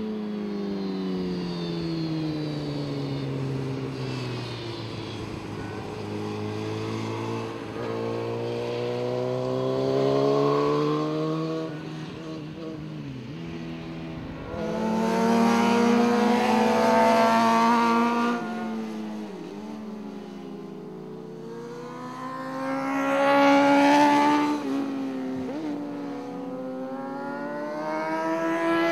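Superbike racing motorcycle engines revving high and dropping in pitch at gear changes and braking, several times over. The engines are loudest about halfway through and again near the end.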